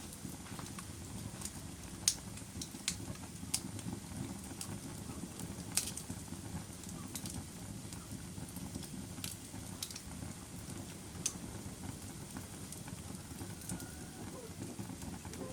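Wood fire burning in a fireplace: a steady low rumble of flames with scattered sharp crackles and pops, a few of them louder, about two to six seconds in.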